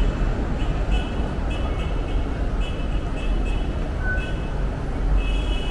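Steady rumble of an MTR train in the station, with short high-pitched tones coming and going.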